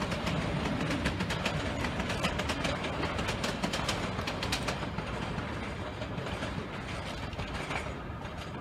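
London Underground S Stock train running away along the track: irregular clicking of wheels over the rail for the first few seconds, then a steady rumble that slowly fades as it recedes.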